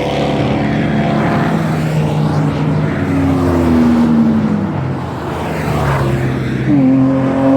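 A car engine running hard on a track. Its pitch slides down a few seconds in, then jumps up sharply near the end as it revs again.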